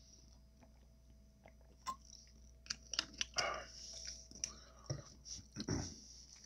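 Close-miked chewing and biting into tacos, with scattered clicks and crunches that become busier from about three seconds in.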